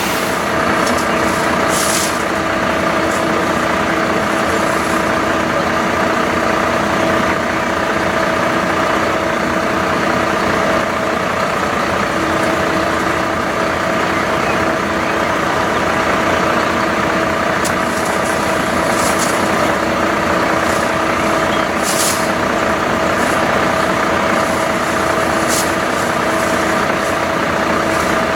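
Fire truck's diesel engine running steadily, with a few short hisses of air.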